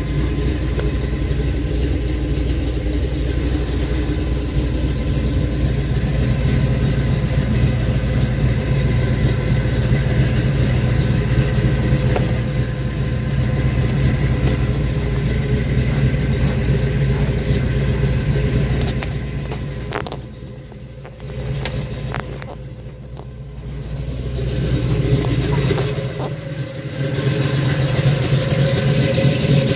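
1970 Ford Mustang Mach 1's V8 engine idling steadily. The level dips for a few seconds about two-thirds of the way through.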